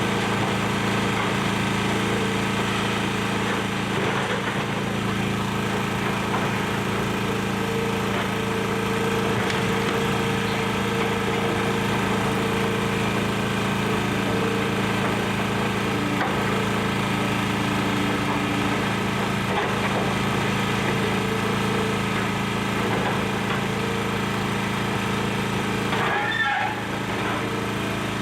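Excavator's diesel engine running steadily under load, with a few knocks of demolition debris, the clearest near the end.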